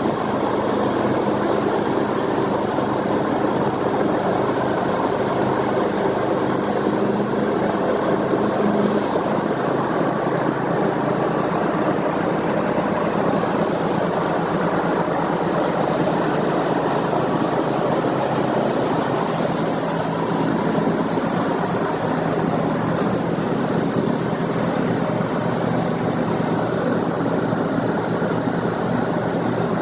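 An engine running steadily at a constant speed with dense mechanical noise, typical of sawmill machinery at work.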